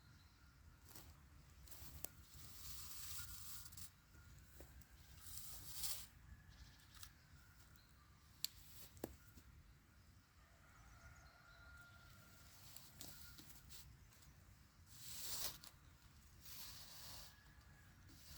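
Faint rustling and crackling in short bursts, with a few sharp clicks or snaps.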